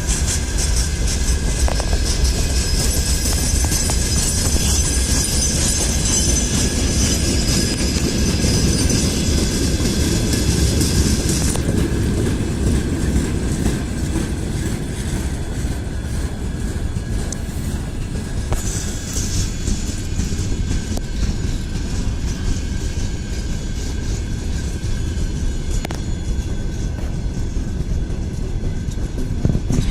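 Freight train rolling past: a steady rumble of wheels on the rails. A higher hissing band over it stops abruptly about eleven seconds in and returns briefly a little later.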